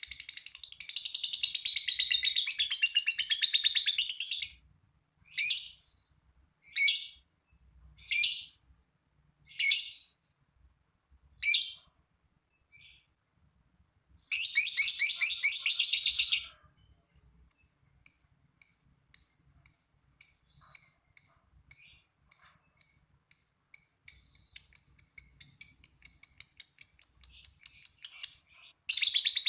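Lovebird singing its long "ngekek" chatter: dense bursts of rapid, high-pitched chattering, broken by single sharp chirps spaced a second or more apart. Near the end, a run of chirps about two a second runs into a continuous trill.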